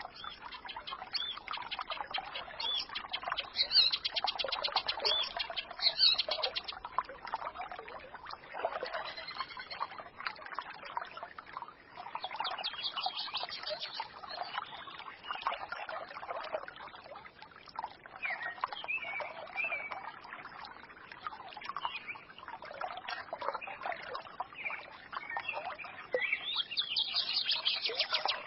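A small forest stream burbling steadily, with songbirds chirping and twittering over it. Bursts of rapid high trills come a few seconds in, again around the middle, and near the end.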